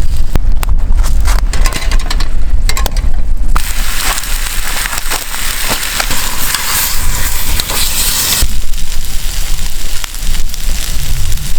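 Wood fire crackling with sharp pops over a low rumble. From about three and a half seconds in to about eight seconds, a dense steady hiss covers the crackle.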